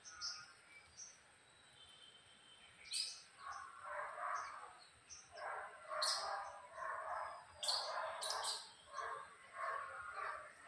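Birds chirping, with a run of repeated, louder calls from a few seconds in onward.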